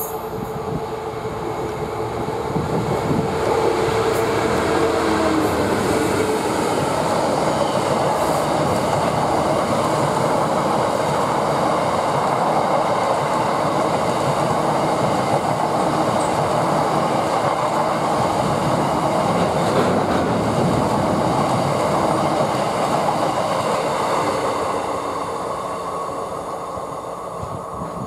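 British Rail Class 66 diesel freight train with a rake of empty stone hopper wagons passing: its two-stroke V12 diesel engine note comes up as the locomotive goes by, then the long steady rumble and clatter of the empty hoppers rolling past, fading over the last few seconds as the train draws away.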